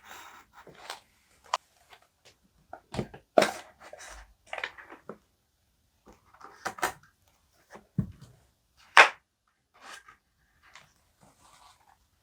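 Paper and stationery being handled for journaling: irregular rustles, taps and clicks, the loudest a sharp tap about nine seconds in.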